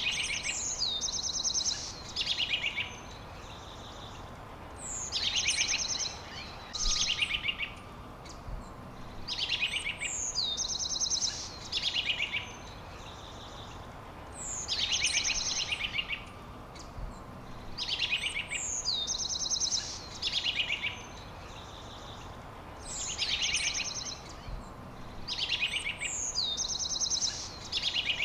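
A songbird repeating the same short phrase about every four to five seconds, each phrase a quick downward sweep into rapid trills, over a steady background hiss.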